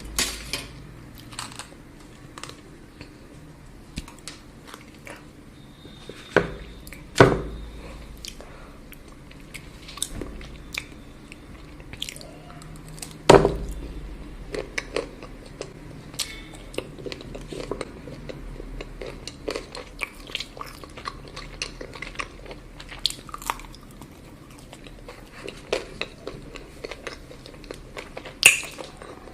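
Close-miked ASMR eating of chocolate: crisp bites and chewing with many small crackles, and two loud snapping bites about 7 and 13 seconds in.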